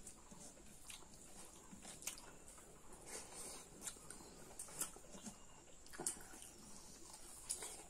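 Faint, close-up wet chewing and lip-smacking of people eating pork curry and rice by hand, with a few sharp smacks and clicks scattered through.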